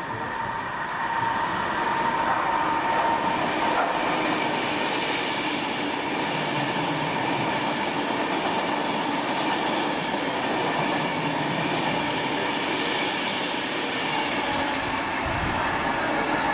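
Passing train: continuous rail and wheel noise that swells about a second in and holds steady, with a high steady whine over the first few seconds.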